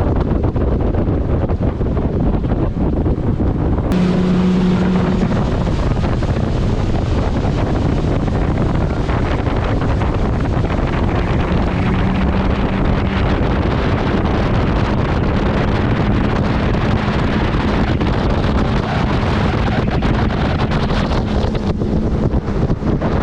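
Wind rushing over the microphone of a motorboat under way, with the steady hum of the boat's engine underneath, clearer for a moment about four seconds in and again through the second half.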